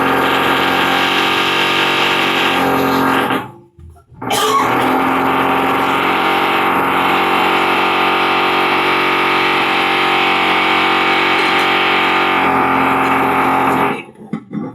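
A loud, steady mechanical drone with a strong pitched hum, breaking off briefly about three and a half seconds in, starting again, and cutting off near the end.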